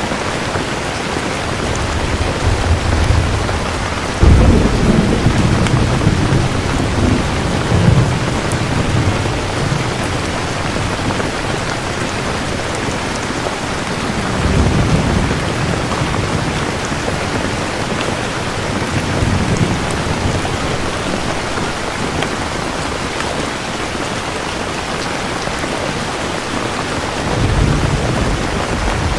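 Heavy steady rain with thunder rumbling several times; the loudest peal breaks about four seconds in, with further low rolls around eight, fifteen and nineteen seconds and near the end.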